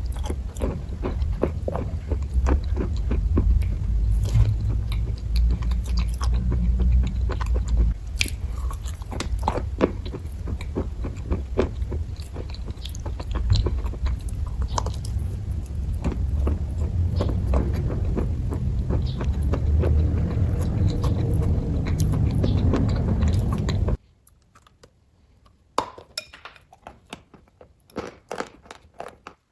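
Close-miked chewing of kaju katli, the soft cashew fudge sweet: many irregular wet mouth clicks and smacks over a low rumble. About 24 seconds in, the rumble cuts off suddenly and the chewing clicks become quieter and sparser.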